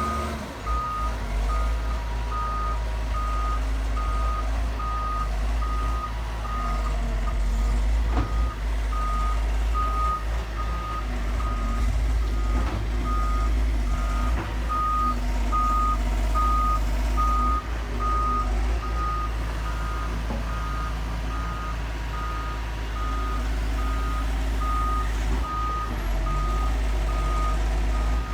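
Heavy earthmoving machine working, its engine rumbling low and steady while its travel alarm beeps evenly, about one and a half beeps a second.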